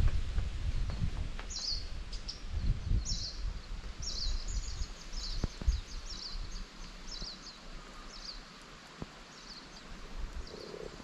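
A small bird calling repeatedly with short, high, downward-sliding notes, in a quick run about four to seven seconds in and more spaced out afterwards. Low thumps and rustling in the first few seconds.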